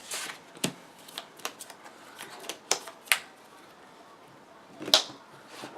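Trading cards being handled and put down on the table: a handful of sharp taps and clicks at irregular intervals, the loudest about five seconds in.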